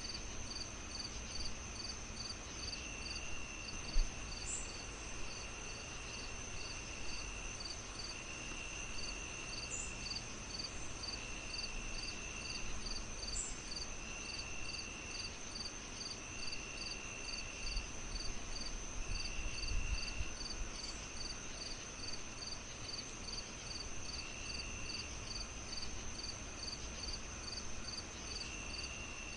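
Crickets chirping in a steady rhythm, about three chirps a second, with a higher steady insect whine and longer trills that come and go, over the low crackle of a wood fire with a sharp pop about four seconds in.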